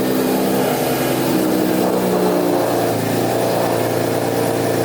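Car engine running just after being started: its pitch wanders at first, then it settles to a steady idle about three seconds in.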